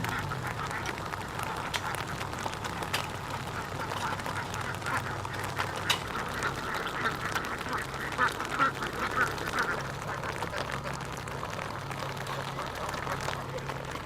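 A large flock of domestic ducks quacking together, many birds calling over one another without pause. A low steady hum runs beneath them.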